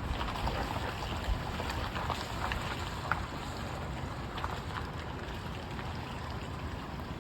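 Steady rushing of a small seasonal creek swollen into a flood after a heavy rain, with small splashes crackling through it.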